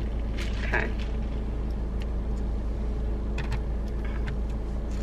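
Steady low rumble of a car idling, heard from inside the cabin, with a few faint clicks scattered through it.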